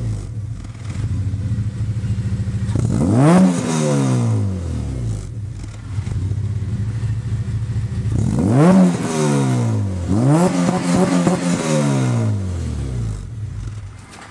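Warmed-up car's exhaust idling, revved three times: once a few seconds in, then twice more in the second half, each rev rising in pitch and falling back to idle.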